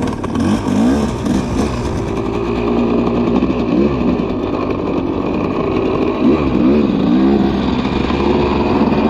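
Motocross dirt bike engines, a KTM 250 SX two-stroke among them, revving up and down over and over. Several engine notes overlap at different pitches.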